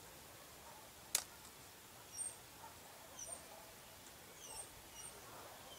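Faint, scattered high chirps of small birds, some sweeping down in pitch, with one sharp click about a second in.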